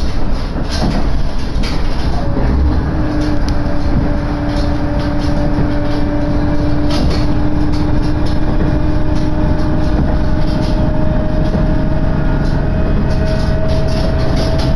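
Diesel railcar heard from inside the carriage: a steady rumble of engine and wheels with scattered clicks from the rails. About two seconds in, a whine in two tones sets in and rises slowly in pitch.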